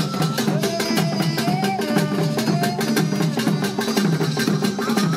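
Drum-led music: dense, rapid percussion strikes over a repeating low drum pattern, with a sliding melody line above.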